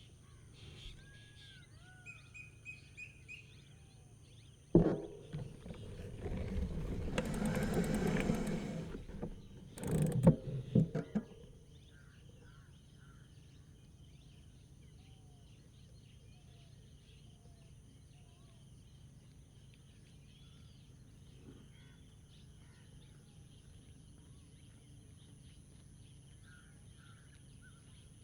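Faint rural outdoor ambience with scattered small bird chirps and a thin steady high hiss. About five seconds in there is a sudden knock, then a louder rushing noise swells and fades over a few seconds, ending in a few sharp clatters around ten seconds in.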